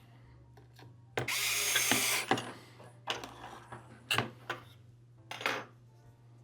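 Handling and tool noise while working on a remote controller's plastic shell and parts: a harsh scraping or whirring noise of about a second, then several short, sharp clicks and scrapes.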